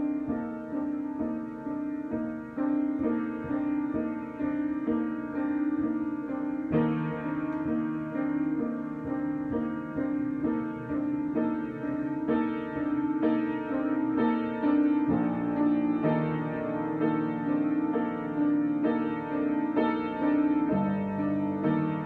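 Solo piano improvising: a steady repeating figure of notes in the middle register, over low notes that change every six to eight seconds.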